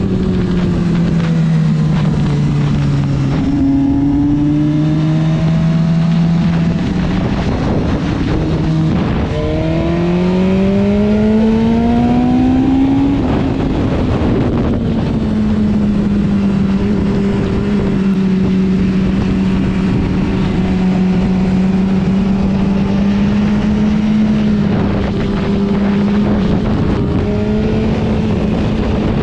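Motorcycle engine running hard on a race track. The note climbs as it accelerates, most clearly over a few seconds about ten seconds in, then holds steady.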